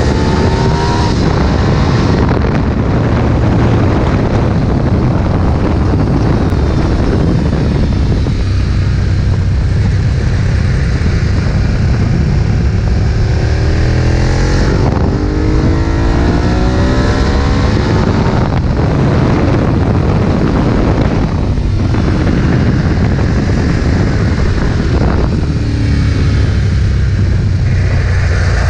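Ducati 1098's V-twin engine at full throttle on track, repeatedly climbing in pitch and dropping back with each upshift as the bike accelerates out of corners.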